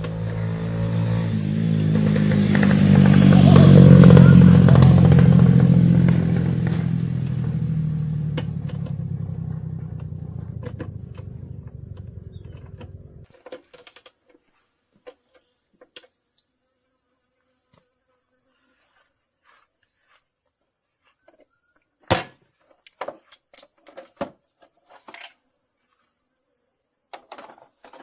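An engine running, swelling in loudness over the first few seconds and then fading, and cutting off abruptly about thirteen seconds in. After that there are a few scattered clicks and knocks over a faint steady high tone.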